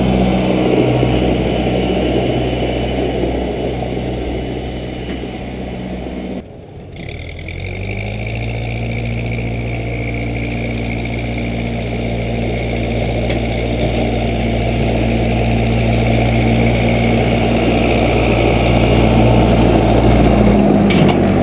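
Case 580B backhoe engine running steadily. About six seconds in the sound drops out for about a second, then the engine comes back with a short rise in pitch and holds a steady speed, easing off near the end.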